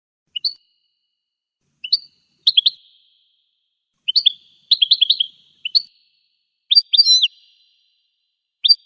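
A goldfinch calling in short, high chirps and quick twittering phrases, in clusters a second or so apart with dead silence between them. The calls are loudest and most tangled near the end.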